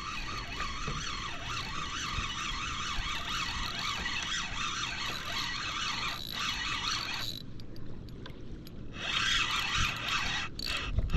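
Fishing reel spinning with a steady whir as line runs through it. The whir stops for about a second and a half a little past the middle, then starts again.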